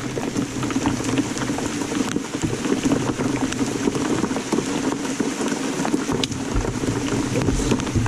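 Torrential rain pouring down: a steady rush with many sharp ticks of individual drops striking close by.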